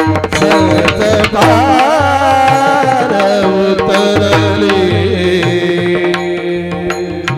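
Devotional bhajan singing: a singer draws out a long wavering melisma over steady tabla strokes, then settles into a long held note that eases off near the end.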